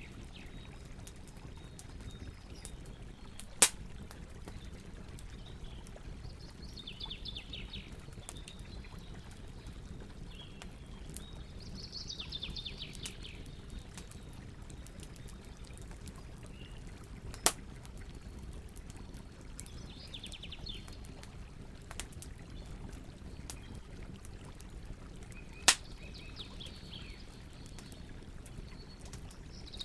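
Campfire burning with a few sharp wood pops over a steady low rush of river water, while small birds give short trills every few seconds.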